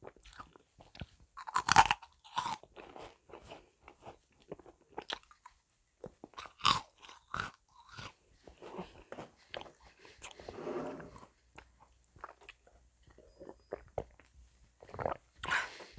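Crisp meringue cookies being bitten and chewed, with irregular crunches throughout. The loudest bites come about two seconds in and again near seven seconds.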